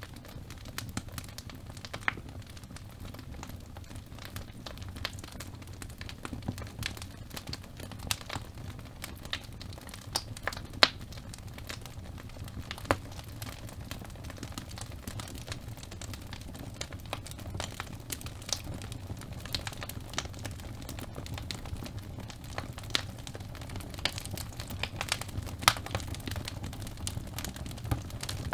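Logs burning in a fireplace: irregular crackles and a few sharper pops over a low, steady rumble of the flames.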